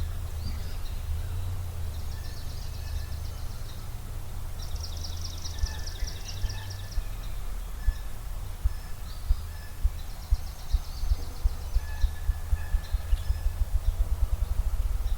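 Ruffed grouse drumming: low thumps that start slow about five seconds in and speed up toward a rapid whir. Over it, songbirds sing rapid high trills three times, with scattered single chirps.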